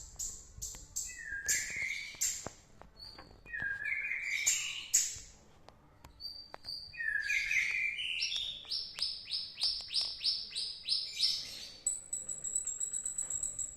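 A songbird singing in loud, repeated phrases, each climbing from a lower note into rapid high notes. The third phrase runs into a string of about ten evenly spaced sharp notes, and a high thin trill follows near the end.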